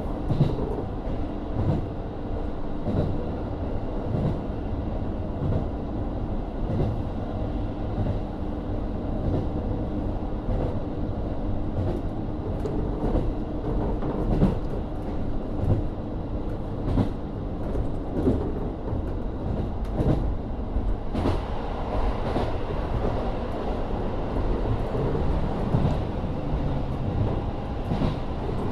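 Running sound of a KiHa 40 diesel railcar under way: a steady low drone from its N-DMF13HZB diesel engine and running gear, with a faint held tone and scattered sharp clicks from the wheels on the track.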